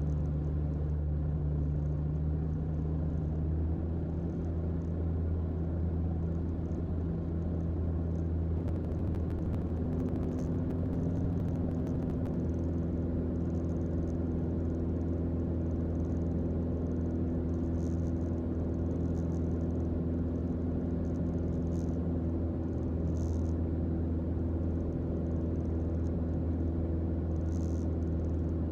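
Cabin drone of a Mooney M20J's four-cylinder Lycoming engine and propeller in flight, steady, with the pitch of the drone shifting about ten seconds in.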